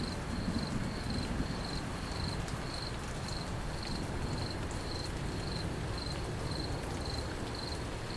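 Crickets chirping in a steady rhythm, about two chirps a second, over a constant low rumble; the tail of a thunder roll fades out in the first second.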